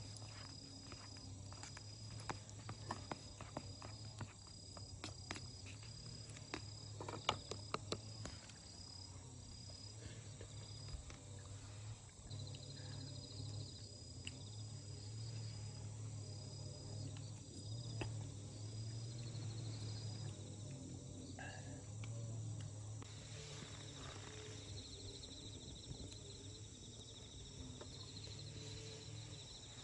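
Insects chirping in a steady repeating series, with a second trilling insect joining later. Scattered sharp crackles from a small wood fire come in the first several seconds, over a faint low hum.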